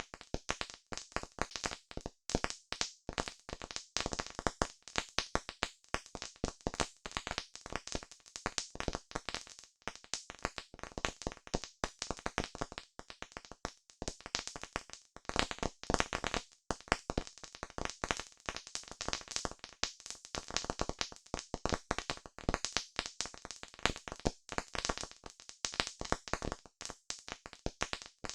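Wood fire crackling steadily, with dense, irregular snaps and pops.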